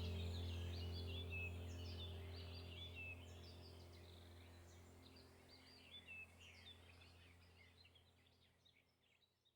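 Many small birds chirping rapidly over a low steady drone, the whole sound fading out gradually to near silence.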